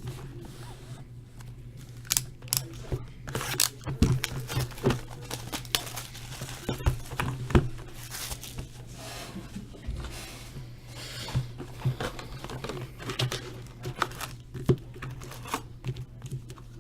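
Packaging of a trading-card box being opened: plastic wrap and foil crinkling and tearing, with scattered clicks and taps of handling, over a steady low hum.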